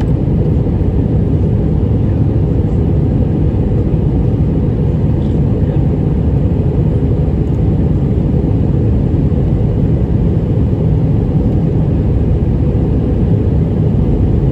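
Steady low rumble of an Airbus A319's twin jet engines and airflow, heard from inside the passenger cabin as the airliner climbs after takeoff.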